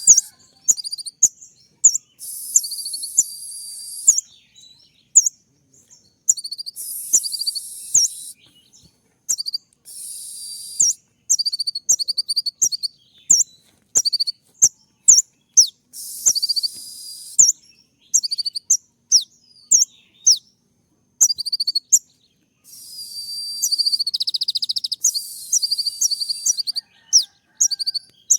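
Kolibri ninja (brown-throated sunbird) singing a 'tembak' masteran: a string of very high, sharp, quick chirps, broken several times by buzzy trilled phrases lasting a second or two.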